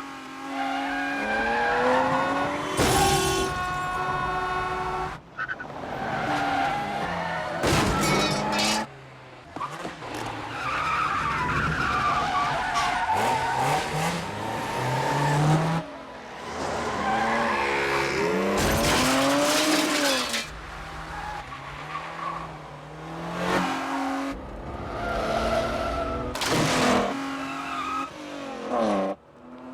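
Car chase: car engines revving hard, their pitch rising and falling, with repeated tyre squeals and several sudden loud hits.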